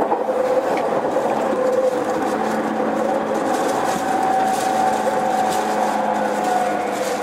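Running noise inside an E231-series Yamanote Line electric train: a steady rumble of wheels on rail. A steady whining tone rises in about four seconds in and fades near the end.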